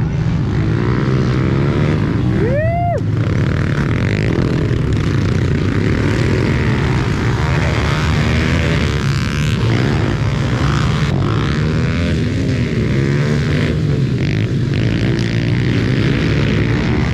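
Several pit bike engines running together and revving up and down on a motocross track, with one brief sharp rev that rises and falls about two and a half seconds in.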